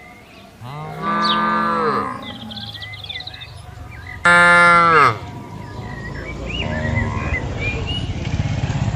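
Cattle mooing: one moo falling in pitch about a second in, a louder, shorter moo near the middle, then a long, lower moo through the last few seconds.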